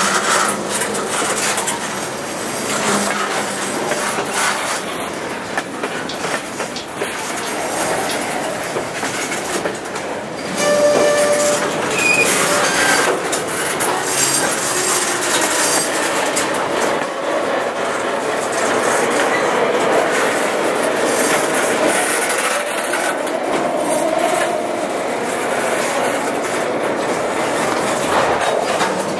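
Centerbeam flatcars of a freight train rolling past at close range: a continuous rumble and rattle of steel wheels on rail with repeated clicks at the rail joints. A few short wheel squeals come about eleven to thirteen seconds in, where the sound also gets louder.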